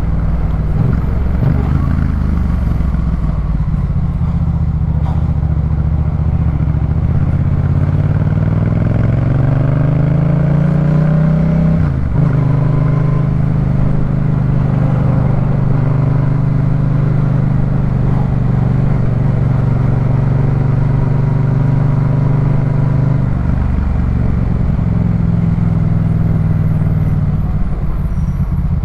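Yamaha MT-07's 689 cc parallel-twin engine through a Jeskap K4 full aftermarket exhaust under way: the revs climb, break sharply at a gear change about twelve seconds in, then hold steady. Near the end the engine note drops as the rider eases off.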